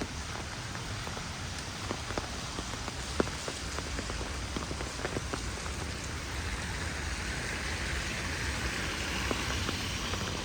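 Heavy rain falling steadily, scattered with sharp ticks of individual drops. A brighter hiss swells about two-thirds of the way through.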